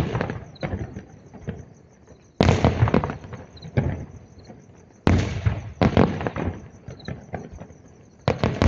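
Fireworks going off: four sudden bangs a few seconds apart, each followed by about a second of crackling that dies away.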